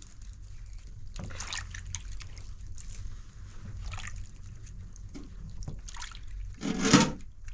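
Water splashing and sloshing in short, irregular bursts, with one louder burst near the end.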